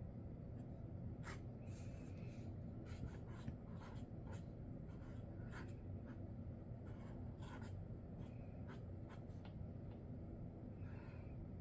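Sharpie Creative Marker tips stroking across the drawing surface in short, irregular strokes. A few longer strokes carry a faint squeak.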